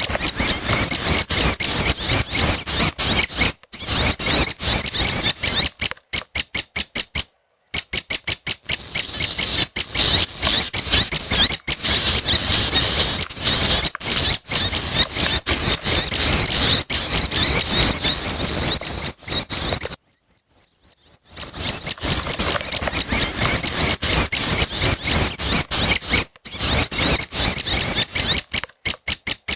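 Young prinias (prenjak) giving high-pitched begging chirps, several a second in long fast runs, with short breaks and a longer pause about twenty seconds in.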